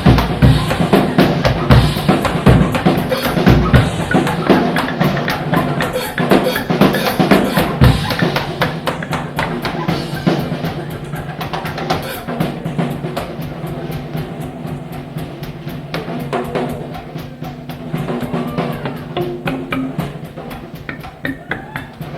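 Live rock drum kit playing fast snare rolls and fills with bass drum, over steady low tones from the band's instruments. It plays loudest for the first eight seconds or so, then eases off.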